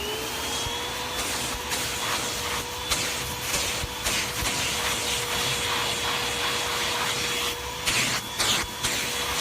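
Hoover WindTunnel 2 (UH71250) bagless upright vacuum starting up: its motor whine rises and settles within the first second, then runs steadily with rushing airflow. A few brief bumps come near the end.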